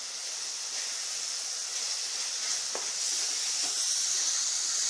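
Onion, tomato and fenugreek-leaf masala sizzling steadily in a hot kadai as cooked toor dal is tipped in and stirred. The sizzle grows a little louder about three seconds in.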